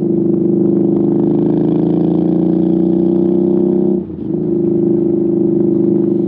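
Royal Enfield Interceptor 650's parallel-twin engine through a Zard aftermarket exhaust, pulling under acceleration with its pitch slowly rising. About four seconds in the sound dips briefly as the rider shifts up, then it pulls on.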